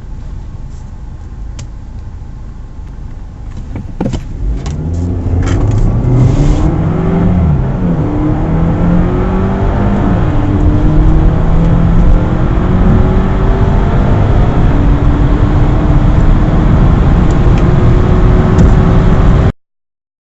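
Audi A4 turbocharged four-cylinder petrol engine idling, then from about four seconds in accelerating hard from a standstill, the revs climbing and dropping back through several upshifts during a 0–100 km/h run. The sound cuts off suddenly near the end.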